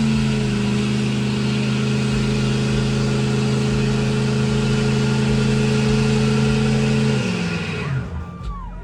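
Truck engine held at steady high revs, then dropping back and falling quiet about seven seconds in.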